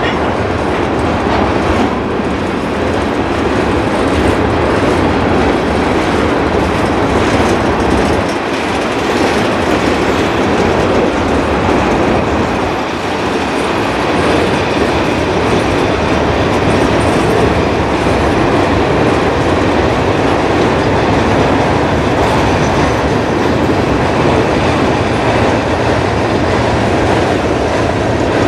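A long freight train's covered hopper cars and tank cars rolling past: a steady rumble and clatter of steel wheels on the rails.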